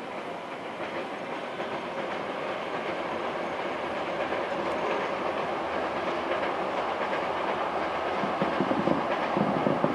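Fireworks display heard from a distance: a dense, steady crackle and rumble from bursting shells that grows slowly louder, with a run of low booms near the end.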